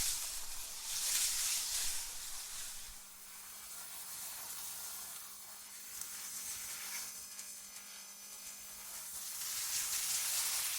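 AI-generated wind ambience: a hissing rush of wind that swells into gusts about a second in and again near the end, and dies down in between.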